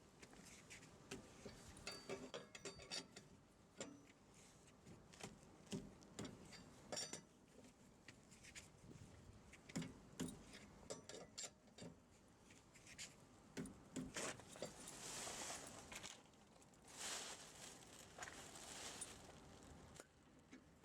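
Faint, scattered metallic clinks and knocks of tools and hardware being handled during a tyre change, with two brief hissing scrapes in the second half.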